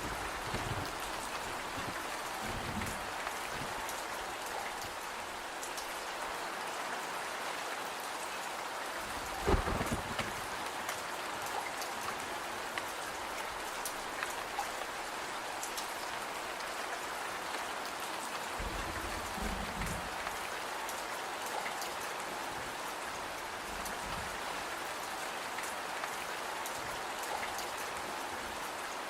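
Steady rain, with faint sharp ticks and a few low thumps, the loudest about nine and a half seconds in.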